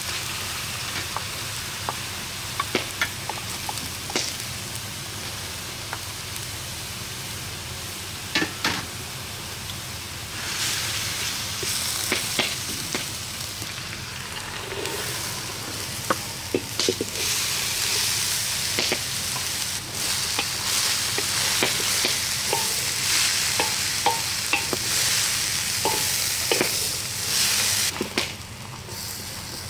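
Onions, ginger-garlic paste and chickpeas sizzling in a stainless steel wok as they are stir-fried, with a wooden spoon scraping and tapping against the metal. The sizzle grows louder and fuller in the second half, once the chickpeas are in and being stirred.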